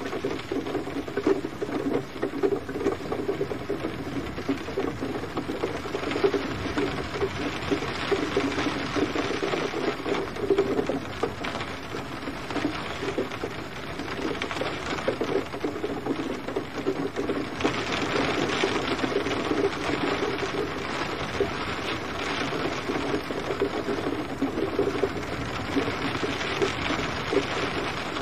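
Steady gentle rain, a dense patter of drops with no thunder. The rain grows a little louder and brighter about two-thirds of the way in.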